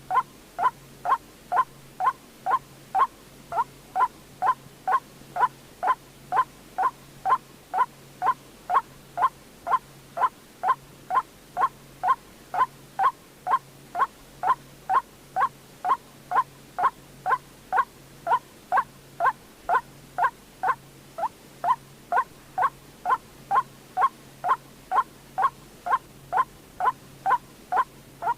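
White-breasted waterhen call: one short, clipped note repeated steadily about twice a second, the monotonous call that trappers play back as a lure.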